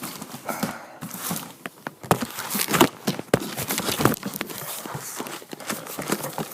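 A cardboard shipping box being opened and its contents handled: irregular knocks, scrapes and rustles, with the sharpest knocks about two to four seconds in.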